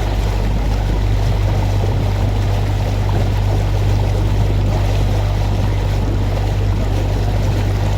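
Canal tour boat's motor running with a steady low hum, under an even rush of water and air noise as the boat moves along.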